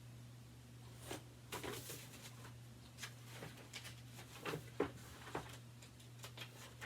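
Soft paper rustles and short clicks from a picture book's pages being handled and turned, a few scattered sounds over a faint steady hum.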